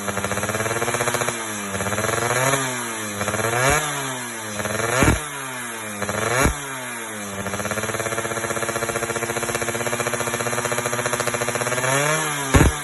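Yamaha F1ZR's two-stroke single-cylinder engine running through an aftermarket expansion-chamber exhaust. It idles with an even pulsing beat and is blipped up and back down about four times in the first seven seconds, with sharp pops on some of the blips. After that it settles back to idle, and there is one more quick blip with a pop near the end.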